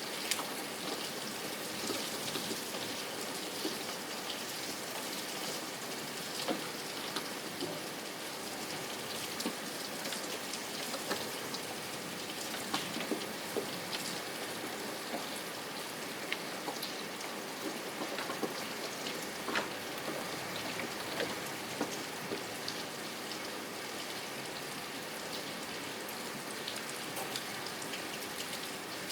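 Steady rain with many small drops pattering on a surface.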